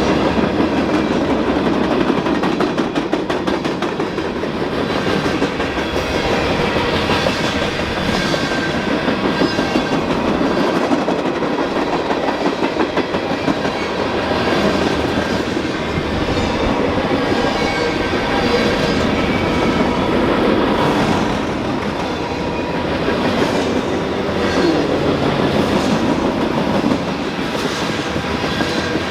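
Freight train cars rolling past close by: a steady rumble with the wheels clicking over rail joints in a regular clickety-clack, and thin steady whining tones above it.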